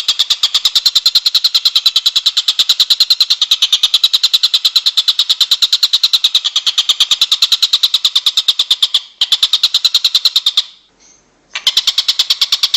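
A songbird's rapid, even trill of high chirps, about ten a second, played as a masteran training recording. It breaks briefly about nine seconds in, stops for about a second near the end, then resumes.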